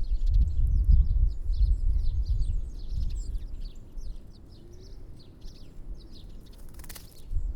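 Many small birds at feeders chirping and twittering, a dense run of short high calls. A low rumble sits under the first half, and a short noisy burst comes near the end.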